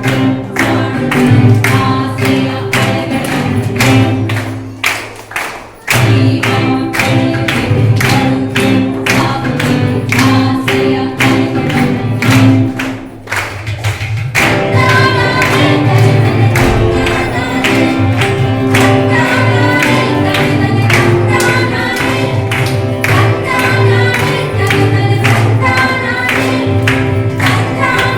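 Devotional song with group singing over fast, steady percussion. The music drops away briefly about five seconds in and again about thirteen seconds in, then comes back in full.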